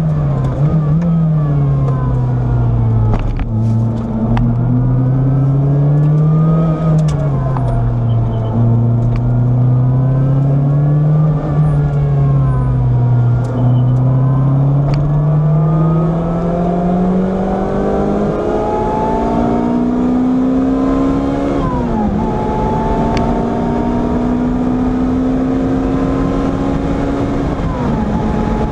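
Car engine heard from inside the cabin at track speed, its pitch falling and rising as it brakes and powers through a series of bends. It then pulls hard up through the gears, with a quick upshift about three quarters of the way in and another near the end.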